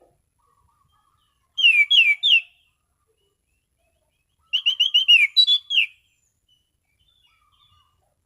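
Anis cendana (orange-sided thrush) singing in clear, loose 'ngeplong' phrases: a short run of three or four down-slurred whistled notes about one and a half seconds in, then a faster run of about eight near the middle.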